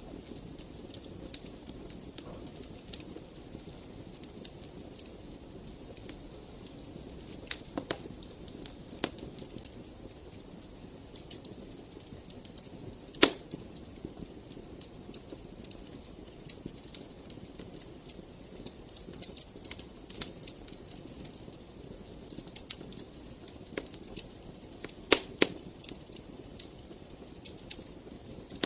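Fireplace fire crackling: a low steady rush with frequent sharp pops, the loudest about halfway through and a quick pair of loud pops near the end.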